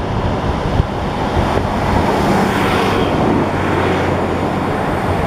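Class 150 Sprinter diesel multiple unit passing close by: a steady underfloor diesel engine hum with wheel and rail noise, growing louder about two seconds in as the train runs beneath.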